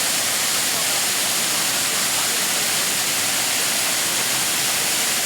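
Nabegataki Falls, a wide curtain waterfall, with its water pouring down in a steady, even rush.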